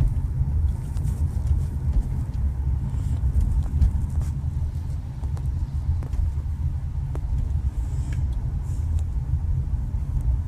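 Steady low rumble of a car on the move, engine and road noise heard from inside the cabin, with a few faint ticks.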